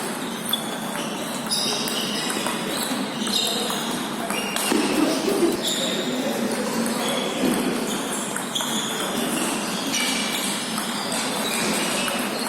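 Table tennis rally: a plastic ball clicking repeatedly off the rackets and the table, with short high pings between the hits.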